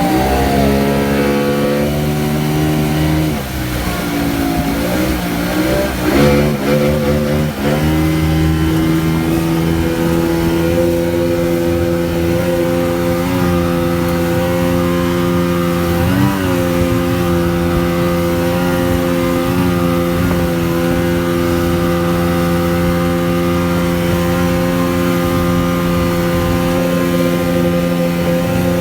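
Engine of the motorboat towing the banana boat, running at speed. Its pitch shifts up and down over the first several seconds, then holds steady.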